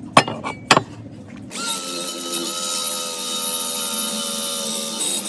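A couple of sharp clicks, then about a second and a half in a power tool starts and runs steadily, a hissy grinding sound with a steady whine in it, typical of rust or paint being ground off metal parts.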